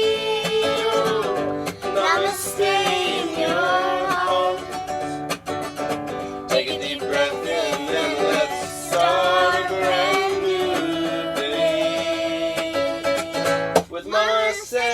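Upbeat sung theme song: a singer holding long, wavering notes over acoustic plucked-string accompaniment.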